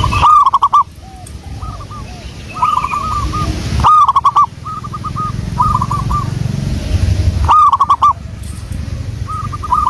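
Zebra dove (perkutut) song: phrases of short, quick coos repeated again and again. Loud phrases come at the start, about four seconds in and near the end, with softer phrases between, over a low rumble.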